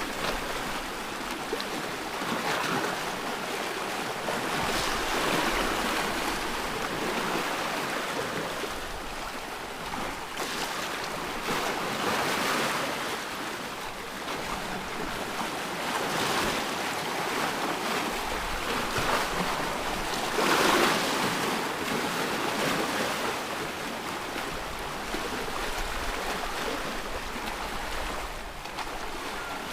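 Ocean surf: a continuous wash of waves that swells and fades every few seconds as they break and draw back.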